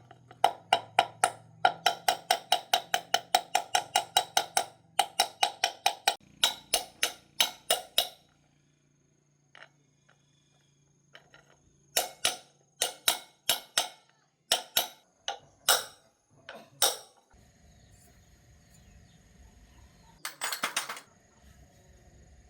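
Rapid repeated hammer strikes on a metal engine part, about four or five a second and ringing with each blow, then a pause and a few slower single strikes, and a short rasping burst near the end.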